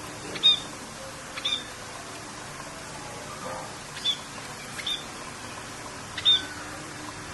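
Songbird giving five short, sharp chirps, spaced one to two seconds apart, over a steady hiss of rain.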